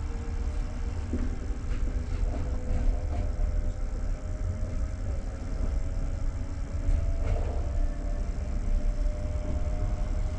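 Passenger train running, heard from inside the coach: a steady low rumble with a faint tone slowly rising in pitch.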